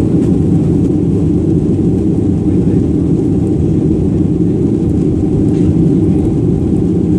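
Jet airliner engines running steadily during takeoff and climb: a constant low noise with a faint steady tone above it, no rise or fall.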